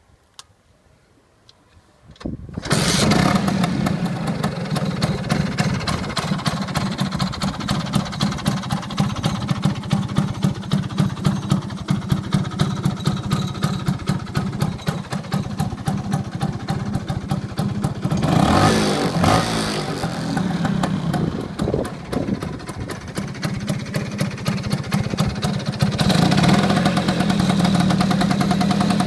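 Piaggio Vespa Rally 200's two-stroke single-cylinder engine starting about two and a half seconds in, then idling with an even, rapid popping through a Sito Plus aftermarket exhaust. It is blipped a few times about two-thirds through, and held at higher revs near the end.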